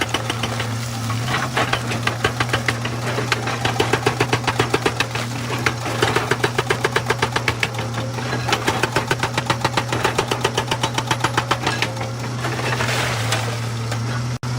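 Excavator-mounted hydraulic rock breaker hammering stone in runs of rapid blows, about ten a second, each run lasting a second or three with short pauses between, over the steady drone of the excavator's diesel engine.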